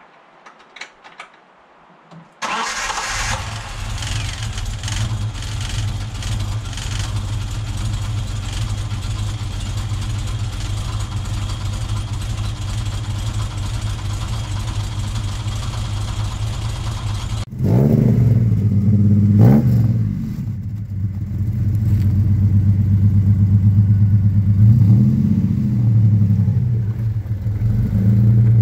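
Ford Capri 3.0S's 3.0-litre Essex V6 catching about two seconds in on its first start after winter storage, then idling steadily, heard at the open engine bay. Later heard at the twin tailpipes, louder and deeper, it is revved up and back down twice in quick succession and once more near the end.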